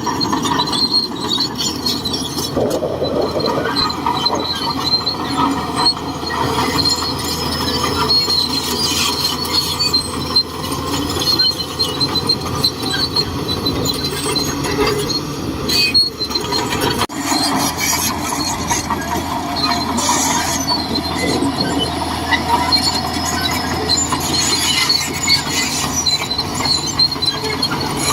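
Shantui DH17C2 crawler bulldozer working: the engine runs steadily under load while the steel tracks give off repeated high-pitched squeaks and scattered metallic clicks.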